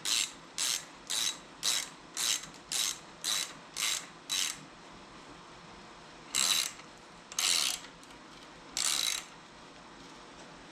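Hand ratchet wrench clicking through quick back-strokes, about two a second, then three slower, longer strokes near the end, as a clamp's bolts are run down.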